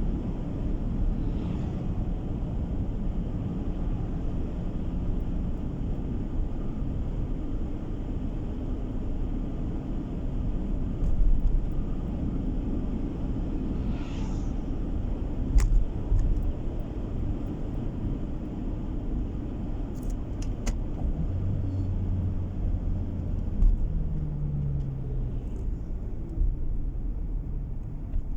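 A car driving along the road, heard from inside the cabin: a steady low rumble of tyres and engine, with a few light clicks and a brief rising engine note near the end.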